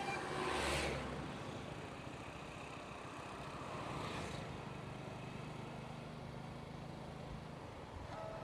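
Motorcycle engine running with road and wind noise on a moving helmet-mounted microphone. There are two louder rushing swells, about half a second in and again around four seconds, and a steady low hum from the engine holds through the later part.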